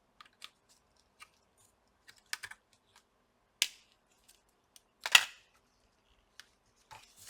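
Irregular light clicks and taps of small laptop parts and tools being handled during disassembly, with a sharper click about three and a half seconds in and the loudest one a little after five seconds.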